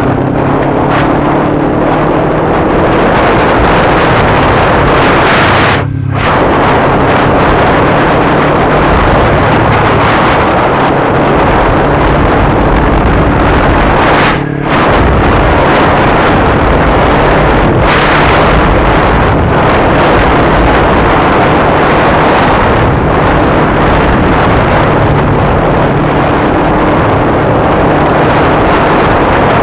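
Kawasaki Ninja 250's parallel-twin engine running under way, with heavy wind rush over the microphone. The sound dips briefly twice, about 6 and 14 seconds in.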